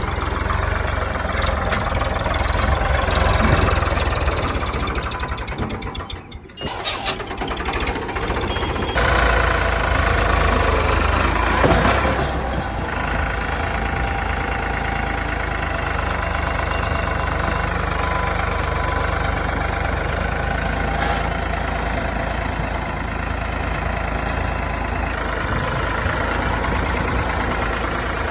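Tractor diesel engine running steadily, with a brief dip in sound about six seconds in before it runs on.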